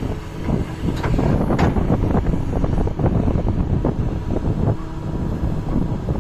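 Doosan DX225 crawler excavator's diesel engine working under load, with repeated knocks and clatter as it shifts sand, and wind buffeting the microphone.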